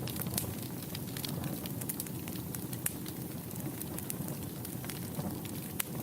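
Wood fire burning in a fireplace: a low, steady rumble of flame with many irregular sharp crackles and pops.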